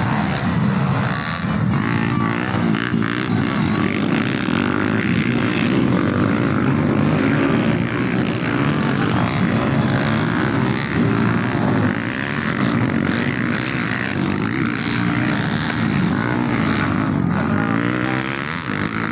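Several racing motorcycle engines running at high revs together, their pitch rising and falling as the riders rev and shift.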